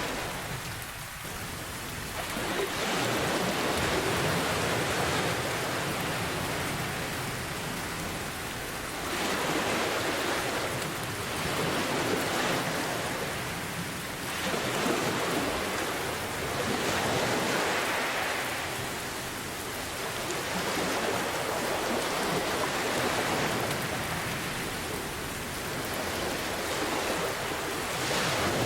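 Steady rain with ocean waves. The hiss of the rain swells and eases every few seconds as the waves surge in and draw back.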